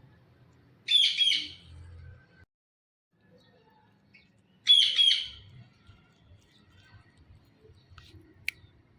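Blue Indian ringneck parakeet calling: two short bursts, each of three quick high notes, about four seconds apart. A faint click comes near the end.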